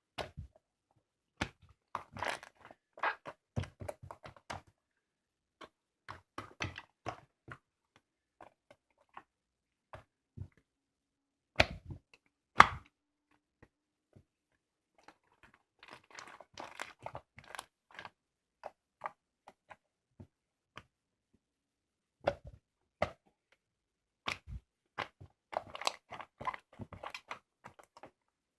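Hands squeezing, stretching and folding homemade slime (액괴), making irregular bursts of sticky crackling and popping with quiet gaps between them, and two sharper snaps about twelve seconds in.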